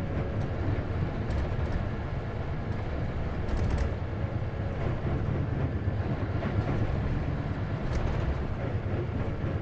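Isuzu KC-LV380N city bus running, heard from inside the passenger cabin: a steady low engine and drivetrain rumble with road noise.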